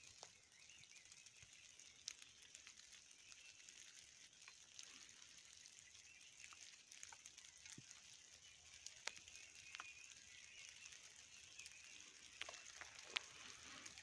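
Near-silent open-air quiet with faint, distant bird calls now and then, plus a few scattered soft clicks.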